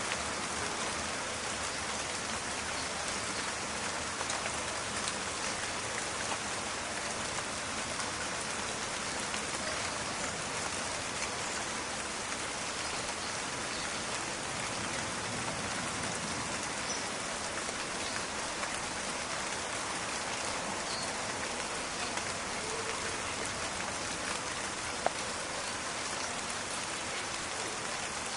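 Steady rain falling on a forest, an even hiss with a fine crackle of drops landing on surfaces, and one sharp drop tick about 25 seconds in.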